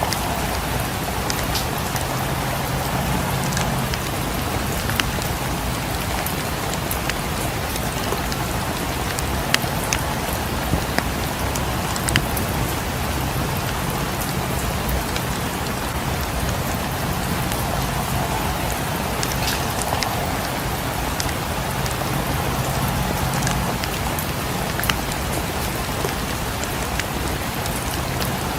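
Steady rain falling, an even hiss with scattered sharp ticks and a few louder clicks throughout.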